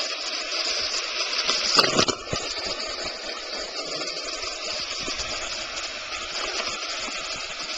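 Waterfall rushing, a steady wash of falling water, with one brief bump about two seconds in.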